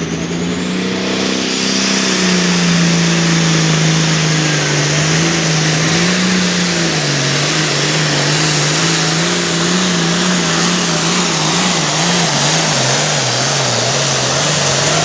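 International 1466 Hot Farm pulling tractor's turbocharged diesel engine running hard under load while it pulls the sled. A high turbo whistle rises in the first second or so. The engine's pitch wavers and sags in the later seconds as it loads down.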